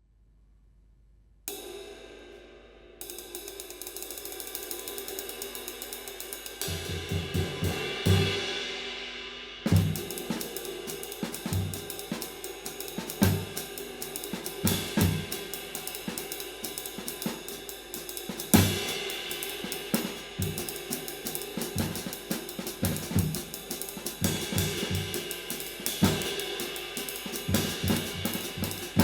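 A handmade 20-inch medium-light B20 bronze ride cymbal, K-style: a single stroke rings out about a second and a half in, then a steady ride pattern of quick strokes. From about six seconds in, drums join in a groove, with bass drum hits under the ride and a few louder accents.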